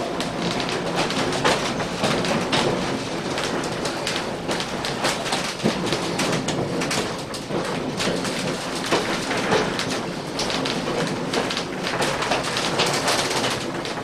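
Railway carriage rolling along the track, heard from inside the carriage: a steady rumble and rattle with frequent irregular clicks and knocks from the wheels and bodywork.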